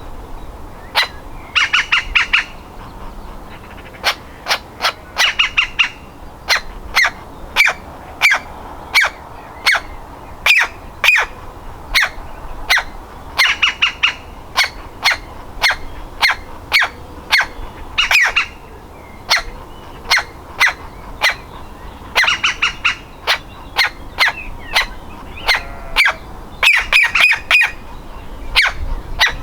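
Woodpecker nestling calling from its nest hole: sharp, short calls about once or twice a second, broken several times by quick runs of rapid calls.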